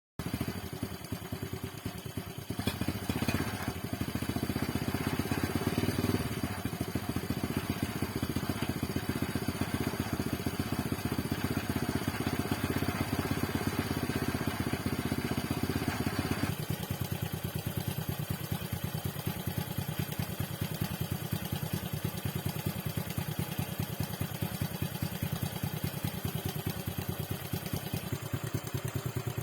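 Honda Super Cub single-cylinder engine, fitted with a SHIFTUP 110cc bore-up kit, running with a fast even beat; held at raised revs, then settling back to idle about sixteen seconds in.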